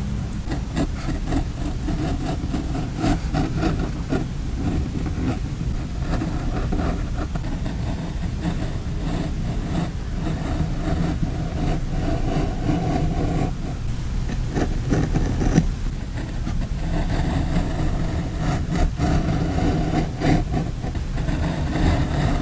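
Paper and sticker handling for journal decorating: scattered light taps, clicks and rubbing strokes over a steady low rumble, which is the loudest part.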